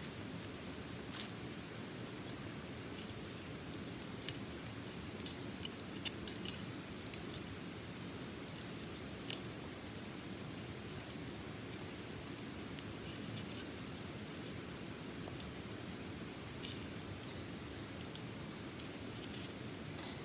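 Small wood fire in a colander burner crackling, with irregular sharp pops and snaps over a steady low rush.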